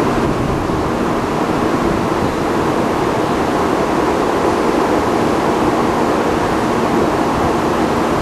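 Steady loud rumbling and rushing of a Taiwan High Speed Rail train running at speed, even throughout, with a faint steady hum underneath.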